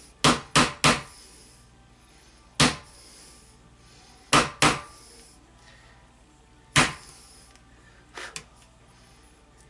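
Hammer taps driving at a musket's rusted-tight barrel wedge, which is not yet moving. There are three quick sharp taps, then single taps and a pair a couple of seconds apart, and two lighter taps near the end.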